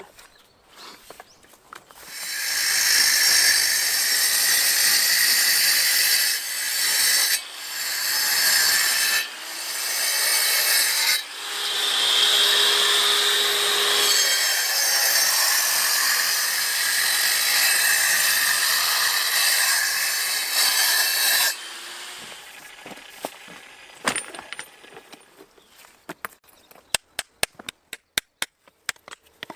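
A power tool running under load, cutting or grinding for about twenty seconds with a few brief dips, then stopping and giving way to scattered sharp clicks and taps.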